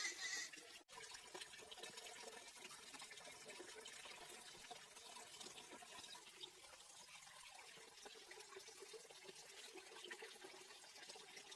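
Faint water trickling and splashing, with a brief louder splash at the start and a sudden break in the sound just under a second in.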